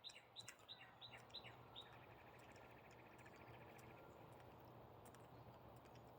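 A songbird singing faintly: a quick run of falling whistled notes, about five a second, for the first two seconds, then a fast even trill for about two seconds.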